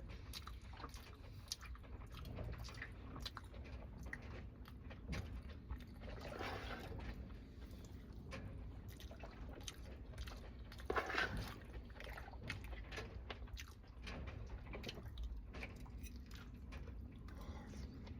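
A person eating: chewing and biting with many small mouth clicks, with two louder, longer stretches about six and eleven seconds in, over a low steady hum.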